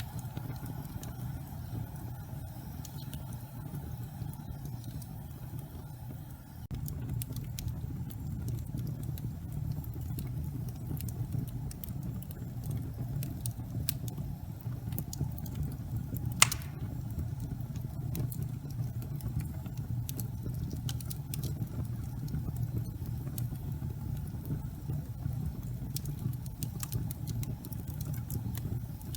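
Gas fireplace fire burning with a steady low rumble and scattered light crackles, a little louder from about seven seconds in, with one sharper pop about sixteen seconds in.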